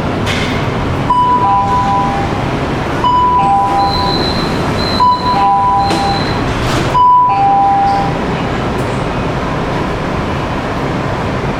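Metro train door-closing warning chime: a two-note high-low beep repeated four times about two seconds apart, over the steady running noise of the train.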